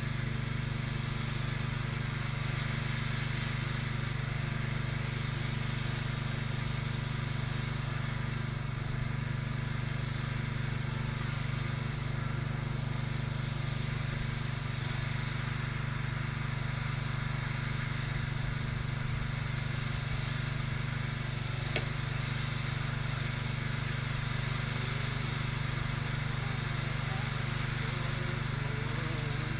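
Small tractor engine running steadily while towing, an even low hum that holds the same pitch, with one brief click about two-thirds of the way through.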